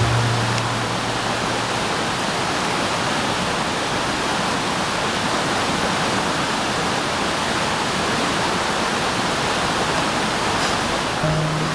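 Steady rushing of water, an even unbroken hiss with no splashes or drips standing out.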